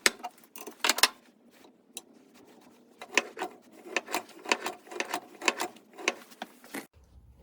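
Workshop tool work on metal: sharp, irregular clicks and knocks, about three or four a second through the middle, cutting off suddenly near the end.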